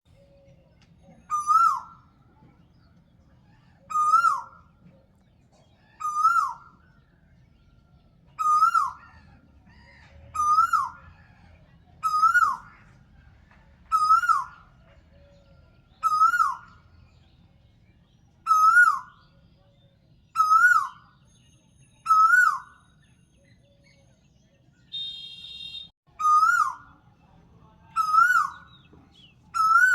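A bird calling again and again, about once every two seconds: each call is a short whistled note that rises and then drops sharply. The calls stop for a moment past the middle, when a short buzzy sound is heard about 25 seconds in.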